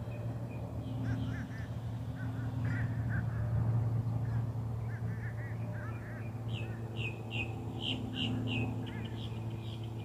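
Birds chirping and calling. In the second half one bird gives a run of quick repeated calls, about three a second. A steady low hum runs underneath.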